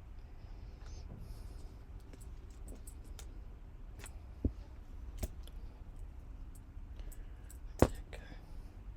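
Scattered light clicks and taps from handling sewing materials and tools on a worktable, with two sharper knocks, one about halfway through and a louder one near the end.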